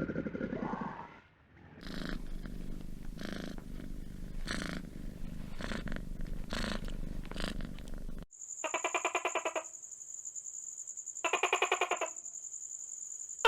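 Domestic cat purring as a steady low rumble that swells with each breath. About eight seconds in, it cuts to two flat, buzzy calls of about a second each from another animal, over a steady high tone.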